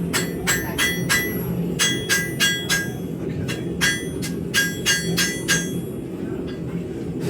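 Hand hammer striking hot high-carbon steel on an anvil, a quick run of ringing blows, about two or three a second, that stops about five and a half seconds in. The smith is forging a large chopper knife blade to shape.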